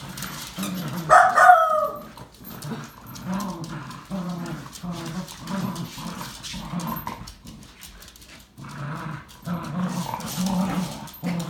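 Two corgis growling in play while tugging on a toy, a string of low growls with short gaps between them. About a second in comes one louder, higher-pitched yelp that falls in pitch.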